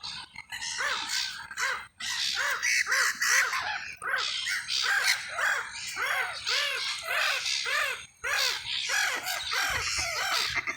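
A flock of corvids calling. Short, harsh arched caws overlap almost without a break, about two to three a second.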